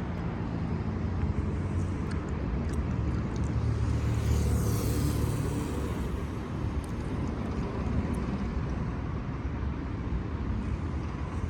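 Wind rumbling over a phone microphone held by a cyclist riding fast on a city road, with traffic noise around; the rumble swells about four to six seconds in.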